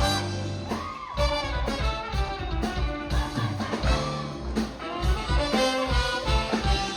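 A live band with brass and trumpet playing upbeat soul music to a steady beat, with a singer's voice over it.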